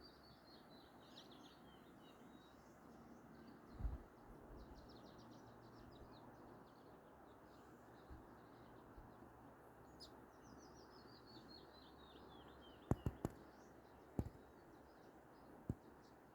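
Songbirds singing at dawn, with repeated falling series of high notes and a fast trill, over a steady rush of river water. A low thump about four seconds in and a few sharp knocks near the end are the loudest sounds.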